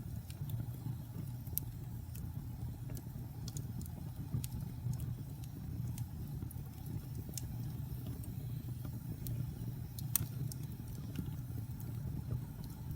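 Wood fire burning in a fireplace: a steady low rumble of the flames with scattered sharp crackles and pops, one louder pop about ten seconds in.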